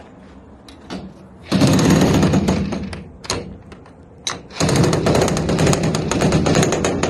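Pneumatic hammer rattling in two long bursts of rapid strokes, the first about a second and a half long, the second about three seconds, with a few single knocks in between.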